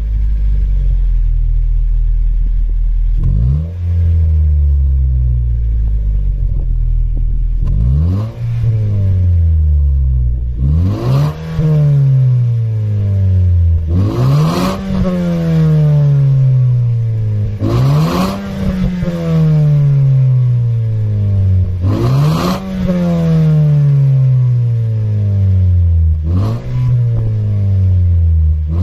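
Honda Freed Hybrid Modulo X's 1.5-litre four-cylinder engine heard through a Kakimoto aftermarket muffler with about 47,000 km on it. It idles, then is revved about seven times; each rev climbs quickly in pitch and falls back more slowly.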